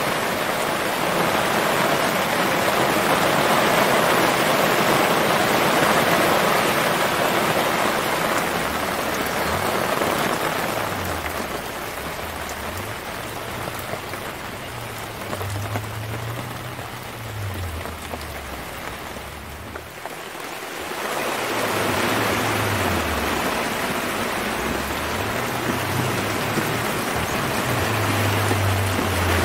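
Steady rain falling, a loud even hiss that drops away briefly about twenty seconds in and then returns. A faint low hum wavers up and down in pitch beneath it through the second half.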